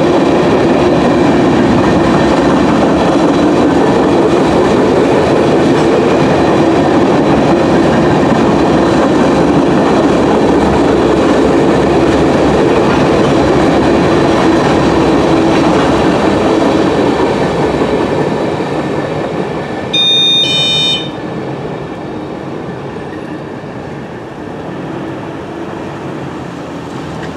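Grain train's freight cars rolling past with steady wheel noise, fading out about 17 seconds in as the end of the train goes by. About 20 seconds in, a short high tone sounds for about a second.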